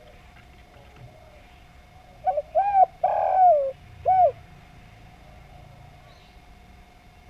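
A spotted dove (derkuku) cooing one phrase of four low notes about two seconds in, the third note the longest.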